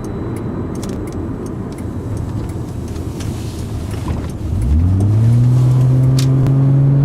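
Car engine and road noise heard from inside the cabin while driving. About four and a half seconds in, the engine note rises in pitch and then holds steady and louder as the car accelerates.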